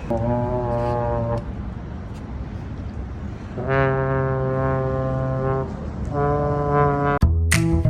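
A low horn sounds three long, steady blasts, the middle one the longest. Near the end it cuts off and music with strummed guitar begins.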